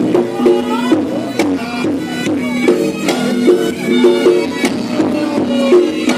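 Reog Ponorogo music: a slompret (reog shawm) plays a wavering, gliding melody over repeating gong-chime notes and regular drum strokes.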